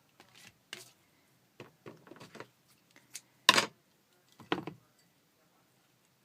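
A run of short knocks and clatters from objects being handled and set down, the loudest two about three and a half and four and a half seconds in.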